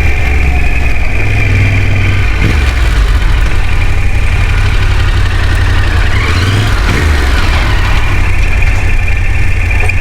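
Off-road motorcycle engine running steadily, with the revs rising and falling briefly about six seconds in.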